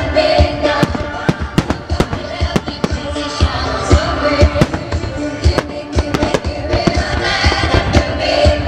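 Fireworks going off in a rapid, irregular string of sharp bangs, several a second, over loud music from the show's soundtrack of musical melodies.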